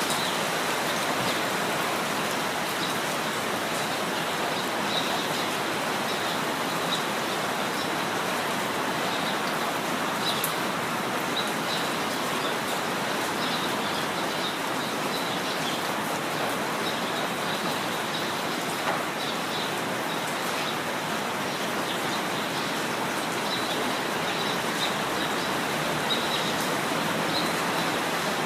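Steady rain falling, with birds chirping in short, high calls scattered throughout.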